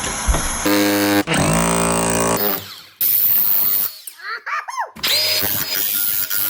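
A power tool running in several bursts, with short gaps between them. In one burst its pitch drops about two seconds in as the motor slows.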